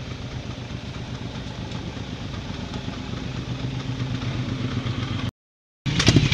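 Car engine idling with a steady low note, growing slowly louder over about five seconds. It cuts off abruptly into half a second of dead silence, and a much louder engine comes in near the end.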